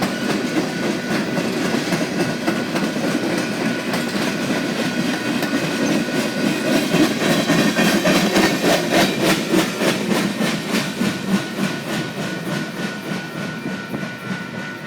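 Train cars rolling past, wheels clacking over the rail joints in a steady rhythm, getting quieter near the end as the tail of the train goes by.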